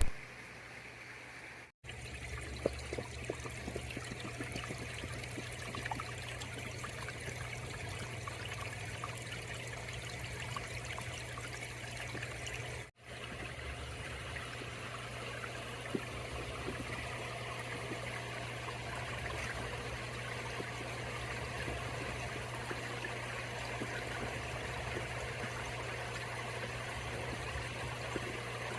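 Pond waterfall and stream running steadily, water trickling and splashing over rocks, with a constant low hum beneath it. The sound drops out for an instant twice, about two seconds in and again near the middle.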